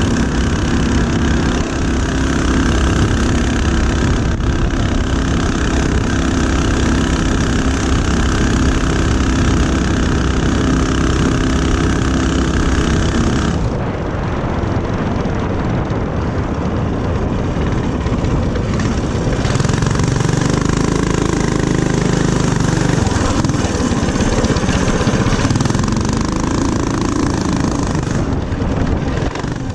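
Small single-cylinder four-stroke mini-bike engine running while being ridden. About halfway through the sound changes abruptly to a different, more uneven engine note.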